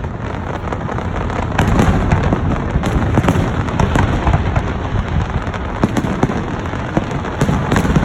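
Fireworks going off in a dense barrage: many sharp bangs and crackles in quick succession over a continuous low rumble of booms.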